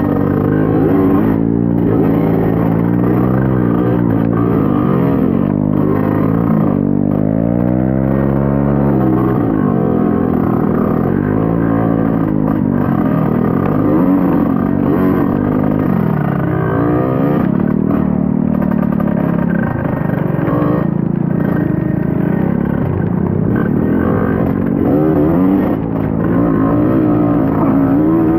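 Trail motorcycle engine running under load, its revs rising and falling over and over as the throttle is worked, in a swell every second or two at first and more irregularly later.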